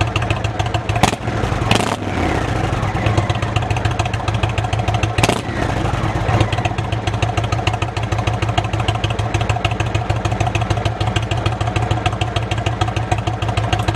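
Indian V-twin motorcycle engine running through Freedom Performance Shark Tail slip-on mufflers on stock headers, with a steady idle and a few short throttle blips in the first six seconds.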